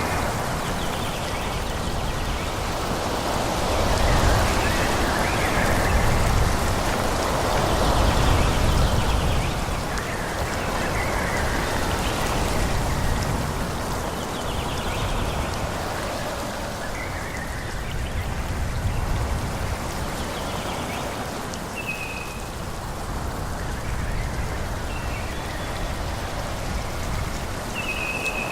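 Wind blowing through forest trees, a steady rushing that swells in gusts early on. A few short, high chirps come in toward the end.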